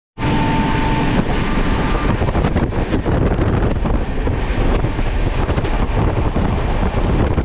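Running noise of a moving express passenger train, a steady rumble and rush with wind buffeting the microphone. A faint steady tone sounds for the first couple of seconds, after a split-second break right at the start.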